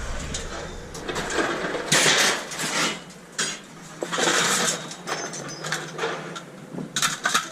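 Pieces of scrap metal being handled, clanking and scraping against each other in a few short bursts, with scattered clicks between them.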